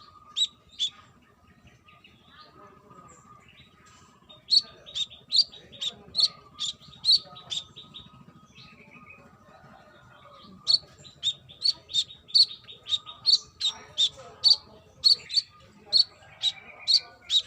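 Brown-throated sunbird (kolibri kelapa) calling: runs of sharp, high chirps at two to three a second, in two bouts with a pause of a few seconds between them.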